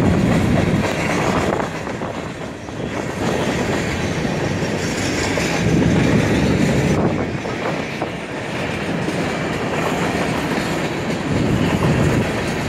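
Freight cars of a train rolling steadily past close by, steel wheels running on the rails.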